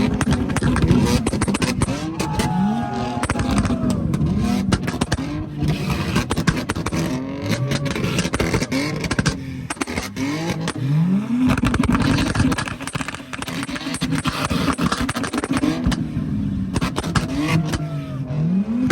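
Tuned Toyota Supra engine revved again and again in quick blips, each rev a rising sweep, over constant crackling and popping from the exhaust.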